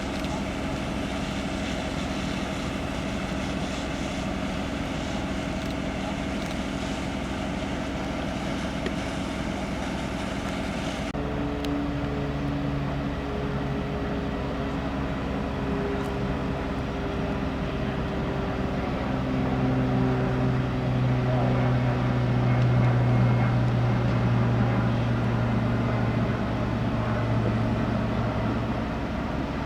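Fire truck diesel engine running steadily. About 11 seconds in the sound changes abruptly, and a lower, steady engine hum comes up, loudest for a stretch after the middle before easing off near the end.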